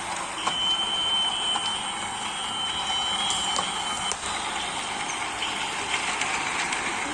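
Battery-powered toy train running on a plastic track: a steady mechanical whirr with many small clicks, and a thin high whine over the first few seconds.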